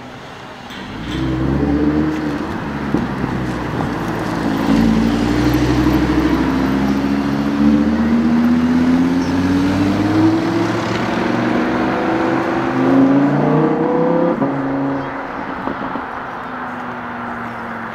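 Audi R8 V10 engine pulling away, its pitch climbing slowly over about ten seconds with small dips. The revs drop off sharply near the end to a lower, steady running.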